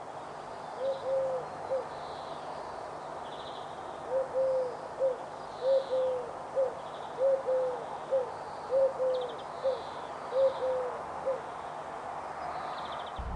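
A dove cooing a three-note phrase, two drawn-out coos and a short clipped one, six times at a steady pace about every second and a half. Faint high chirps from small birds sound over a steady background hiss.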